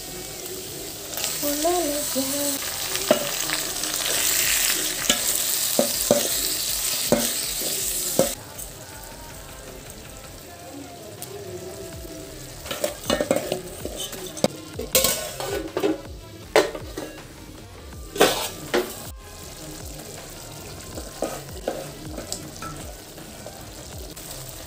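Vegetables sizzling as they fry in a pan, loudest for the first several seconds, then dropping suddenly to a quieter sizzle about eight seconds in. Short knocks and clicks of a utensil stirring against the pan come through, mostly in the second half.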